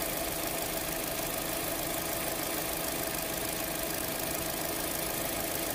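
GM Ecotec car engine idling steadily, an even running note that holds the same pitch throughout, with no revving, while the charging system is tested.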